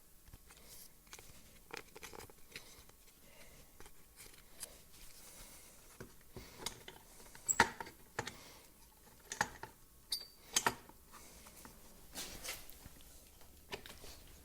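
Scattered light clicks, taps and small knocks of trimmer parts and tools being handled on a workbench during reassembly of the clutch, with a few sharper knocks in the second half.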